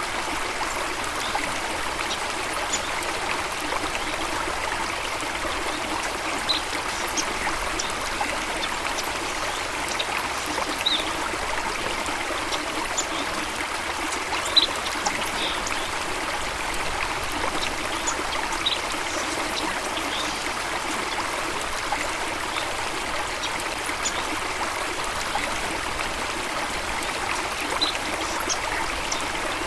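A stream of water rushing and splashing steadily, with a few short, high bird chirps now and then.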